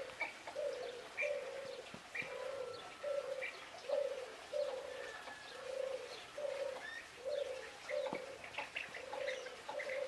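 A bird cooing: a steady run of short, low hoots, often in pairs, with faint chirps from small birds in between.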